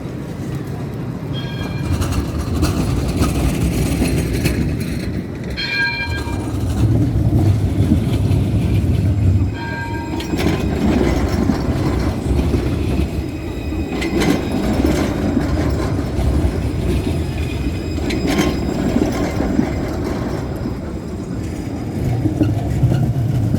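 Tram running with a steady low rumble and some clicking from the rails. A short chime of several stacked tones sounds three times, at about a second and a half, six seconds and ten seconds in.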